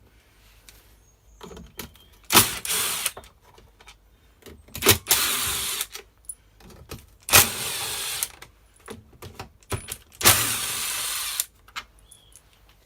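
Cordless power driver backing out screws from the engine housing of a Stihl FS240 brush cutter, in four short runs of about a second each, each starting with a click.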